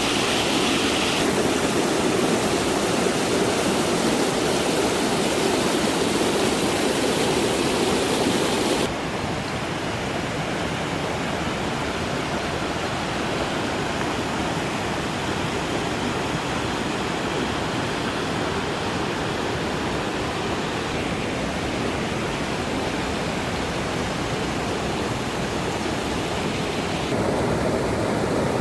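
Steady rushing of flowing water from a stream or small waterfall, dropping abruptly in level about nine seconds in and rising again near the end.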